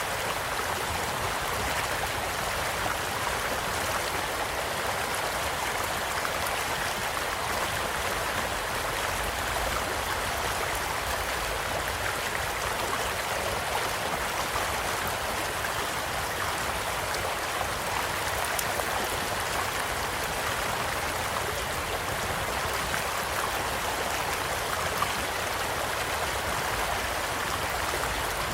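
A small stream flowing steadily, with a campfire's scattered small crackles and pops over it. One sharper pop comes near the end.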